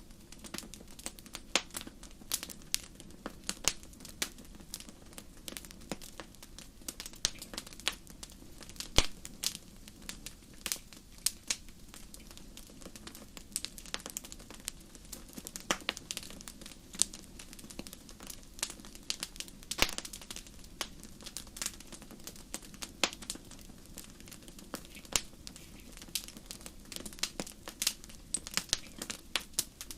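Wood fire crackling: irregular sharp pops and snaps, a few louder than the rest, over a soft low rumble of the burning fire.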